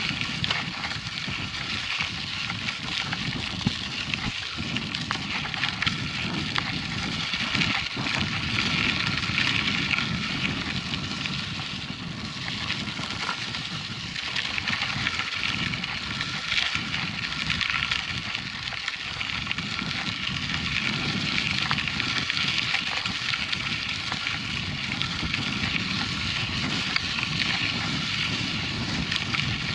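Mountain bike rolling steadily over a dirt and gravel track: a continuous crackle of tyres on loose ground, with a low rumble underneath.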